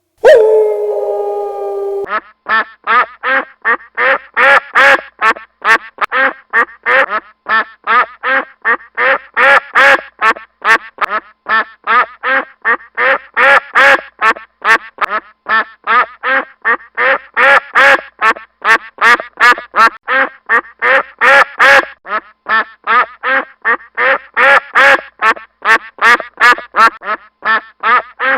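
Ducks quacking in a long, rapid run of short calls, about three a second, after a drawn-out pitched call in the first two seconds.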